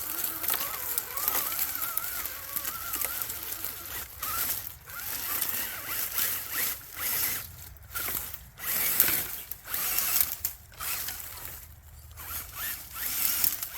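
RC crawler's small electric motor and geared drivetrain whining under throttle. It wavers at first, then comes in short stop-start bursts.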